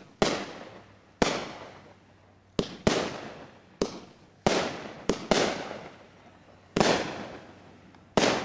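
Consumer fireworks going off: about ten sharp bangs at uneven intervals, some close together in pairs, each trailing away in a short fading echo.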